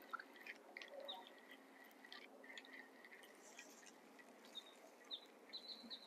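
Faint birdsong: short, high chirps repeated again and again, with a few soft clicks, over an otherwise near-silent background.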